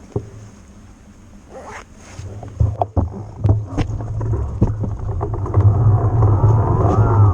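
Riding noise from an electric mountain bike as heard by the rider's camera: a low rumble that builds from about two seconds in, with a run of sharp knocks and rattles over rough ground.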